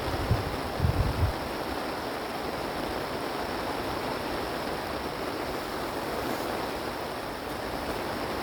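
Wind buffeting the microphone with low rumbling gusts for about the first second, then a steady rushing hiss of strong wind.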